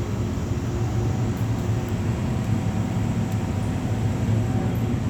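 MTR M-Train metro train running, a steady low rumble.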